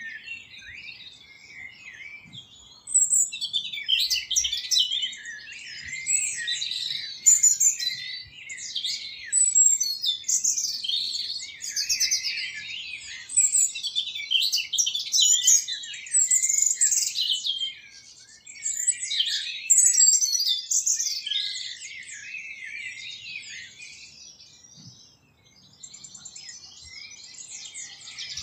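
Birds chirping and twittering in a dense, overlapping chorus. It is quieter for the first three seconds and dips briefly near the end.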